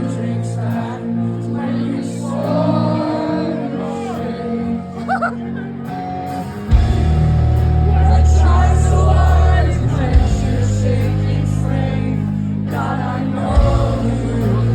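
Live rock band playing with singing, recorded from the audience in a large hall; the full band comes in hard with heavy low end about seven seconds in.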